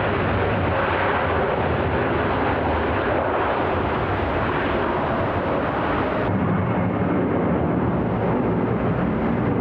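Jet airliner engines running: a steady, loud rushing noise with a low rumble underneath.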